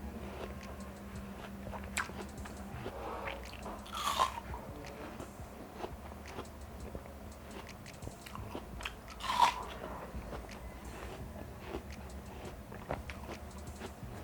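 Biting and chewing watermelon, with the loudest bites about four and nine seconds in and smaller chewing sounds between.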